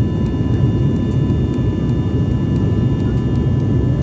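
Airliner cabin noise in flight: a steady drone of engines and rushing air, with a few thin, steady whining tones above it.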